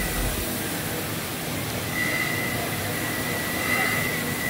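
CF-MASTER 4013 five-axis CNC router running: a steady machine noise with a thin high whine that swells twice.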